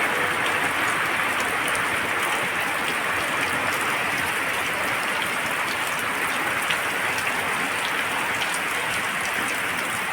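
Heavy rain falling steadily: a continuous even hiss with faint scattered drop ticks.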